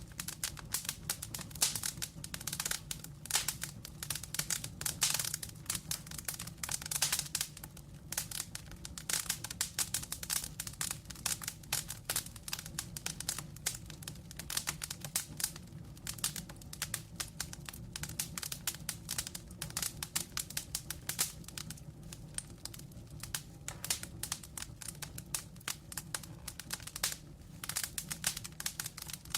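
Wood fire burning in a fireplace, logs crackling and popping in dense, irregular clicks over a low steady rumble of flame.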